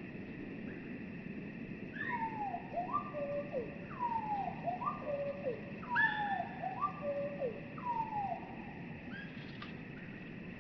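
Bird song slowed down, most likely a northern cardinal: a phrase of slurred whistles sliding steeply down in pitch, each followed by a few short stepped notes, repeated about every two seconds from about two seconds in. The slow motion makes the song sound low and drawn out.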